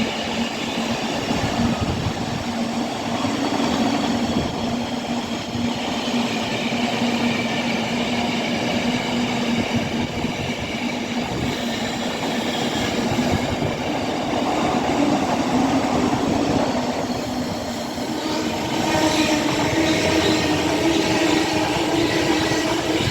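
Avanti West Coast Class 805 Evero passenger train passing through on the down fast line: a sustained rush of wheels on rail with steady humming tones. About three-quarters of the way through, the hum shifts higher and new tones join.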